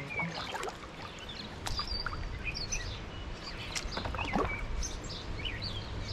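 Several small birds calling in short chirps and whistles scattered throughout, over a low steady rumble, with a few light knocks.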